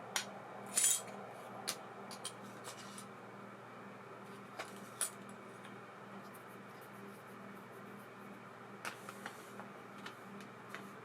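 Small metal clicks and clinks at irregular intervals, the loudest cluster about a second in, from parts of an ABU Ambassadeur 2500C baitcasting reel being handled, with a steady low hum underneath.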